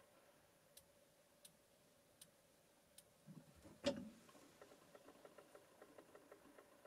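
Faint clicks of a riflescope's windage and elevation turrets being turned: a few spaced ticks, one louder knock about four seconds in, then a quick run of small clicks.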